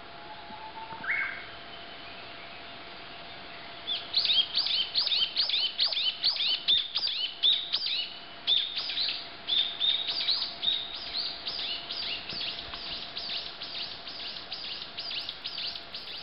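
A songbird singing: a single short call about a second in, then from about four seconds a long run of quick, high, repeated downward-sweeping whistled notes, a few each second, growing a little softer toward the end.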